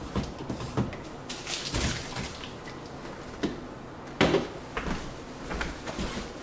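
Jars, bottles and plastic bins knocking and clicking as they are moved around a refrigerator, with a scrape about a second and a half in and a sharper knock about four seconds in.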